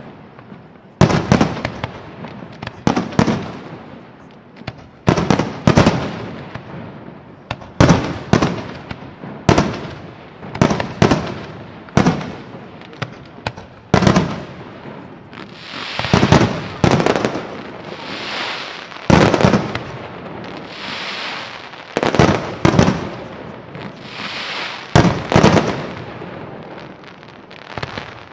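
Fireworks display: aerial shells bursting in a steady run, a loud bang every second or two, each trailing off in a short echo. In the second half, longer hissing bursts fill the gaps between the bangs.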